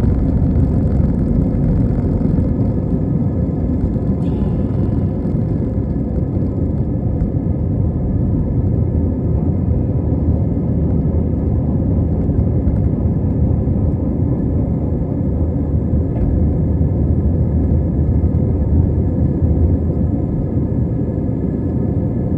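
Steady, loud low rumble of an Airbus A320 airliner's jet engines and airframe, heard from inside the cabin.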